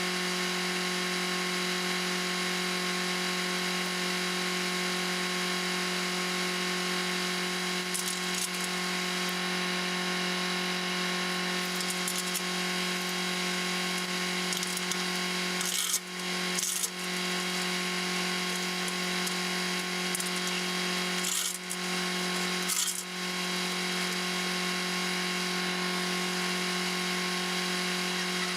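An engine-driven machine running steadily at constant speed, with a constant pitched hum, dipping briefly a few times in the second half.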